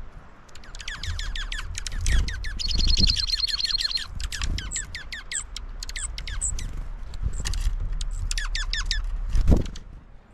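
A bird singing a rapid series of sharp notes that each sweep downward in pitch, with a fast high trill about three seconds in. A thump near the end, over a low rumble.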